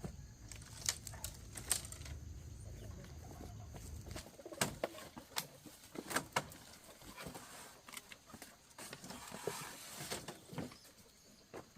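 Chickens making soft, low clucking calls, with scattered sharp knocks and taps.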